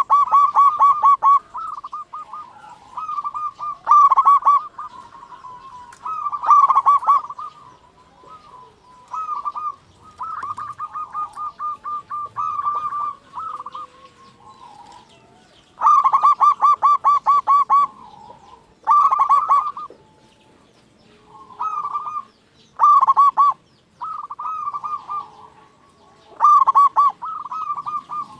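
Zebra dove (perkutut) cooing in repeated phrases of fast, stuttering coo notes, each phrase lasting a second or two with short pauses between.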